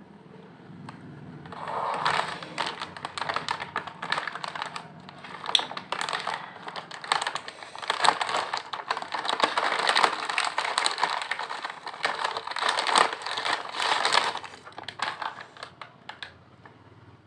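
Lay's potato chips crunching close to the microphone: a dense run of crisp crackles that starts about a second and a half in and thins out near the end.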